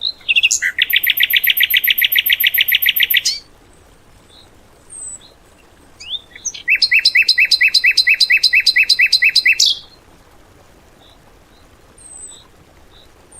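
A caged songbird singing two long, rapid-fire trill phrases of about three seconds each, one at the start and one a few seconds later, the fast machine-gun 'tembakan' burst that bird keepers use as song material. Faint short high chirps sound between the phrases.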